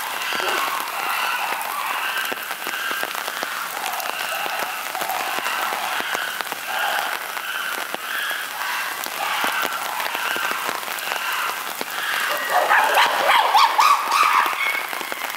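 Steady rain falling, with a rhythmic pulsing call behind it at about one and a half pulses a second. About twelve seconds in, a louder burst of chimpanzee screaming lasts for about two seconds.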